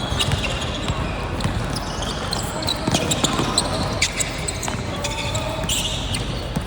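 Basketball game sounds in a gym: the ball bouncing on the court, with many short, high squeaks scattered throughout, and voices of players and spectators.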